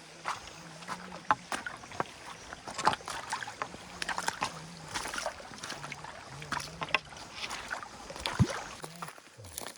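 Water in a shallow stream splashing and sloshing in irregular strokes, with sharp knocks mixed in, as of wading and working a fishing net.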